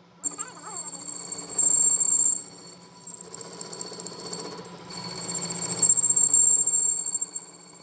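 A workshop machine running with a steady high whine and a low hum, growing louder for a moment about two seconds in and again near the end.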